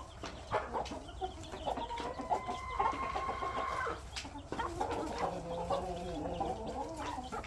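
A flock of backyard hens clucking and calling, with one long, even-pitched call held for about two seconds starting about two seconds in, then a run of wavering calls.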